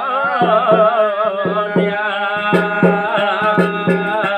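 Garhwali jagar folk music between sung lines: a held, wavering melody over steady hand-drum strokes.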